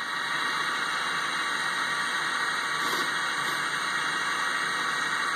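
Bucket truck running, a steady even mechanical noise.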